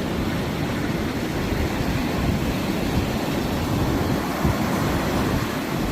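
Ocean surf washing ashore: a steady rushing noise heavy in the low end, with no single wave break standing out.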